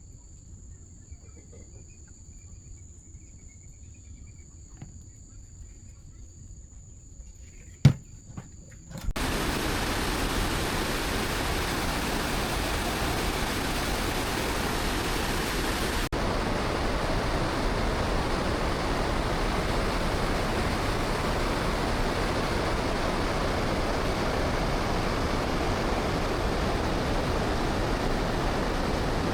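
Insects trilling in a steady high tone with short pauses, with a single sharp click near eight seconds. About nine seconds in, this cuts abruptly to a loud, even rushing noise that continues without change.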